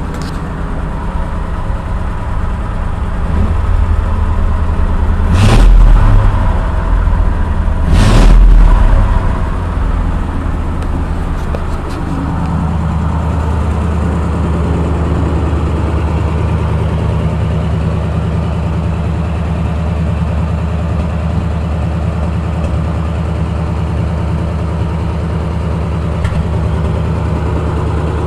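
1936 Ford truck's flathead V8 running, revved up twice about five and eight seconds in, then settling to a steady idle.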